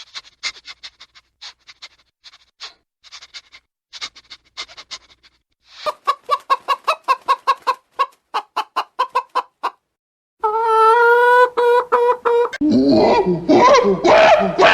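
Chickens clucking: faint short clucks at first, then a loud rapid run of clucks, about three or four a second. A held call on one steady pitch follows, and loud overlapping animal calls come in for the last two seconds.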